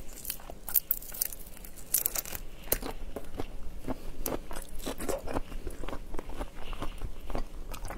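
Close-miked eating of raw shrimp: irregular crunching and wet clicks as the shell and flesh are bitten and chewed, with some shell being pulled apart by hand.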